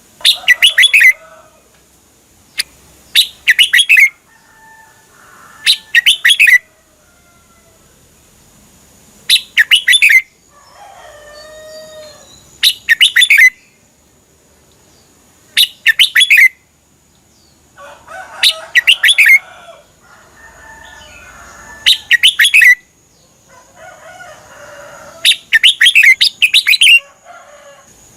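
Red-whiskered bulbul singing: loud, short phrases of quick whistled notes repeated about every three seconds, with softer chattering warbles between some of them.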